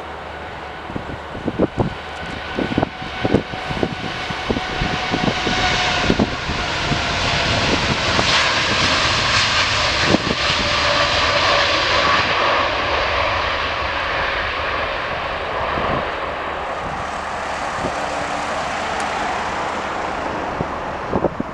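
An airliner passing close by: its engine noise builds to a peak and then slowly fades, and its engine tones drop in pitch as it goes past. Wind buffets the microphone with short low thumps.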